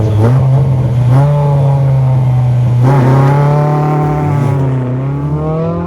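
Rally car engine held at steady high revs, with another engine note swelling up and fading away in the middle.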